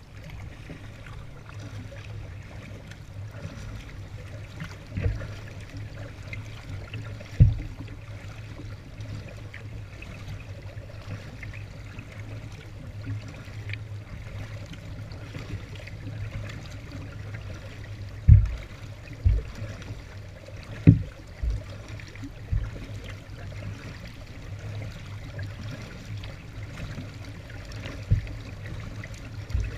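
Kayak paddling through shallow flood water: water trickling and dripping off the paddle, with a few short low thumps, the loudest about two-thirds of the way through.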